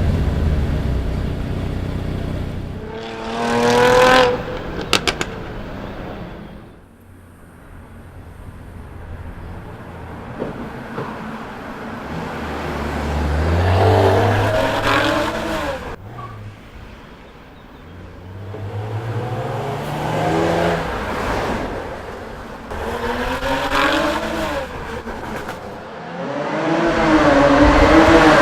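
Jaguar F-Type S's 3.0-litre supercharged V6 revving hard in several acceleration runs, its pitch climbing and dropping with each one, with a few sharp exhaust cracks just after the first run.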